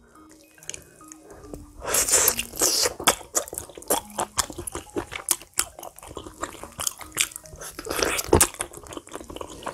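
Close-up eating sounds of boiled pork trotter (jokbal suyuk): meat and gelatinous skin pulled apart by hand and chewed, a dense run of wet, crackling mouth clicks starting about two seconds in.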